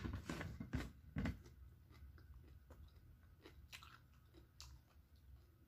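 A person eating a raw vegetable close to the microphone: biting and chewing, strongest in the first second and a half, then fainter chewing with a few sharp clicks.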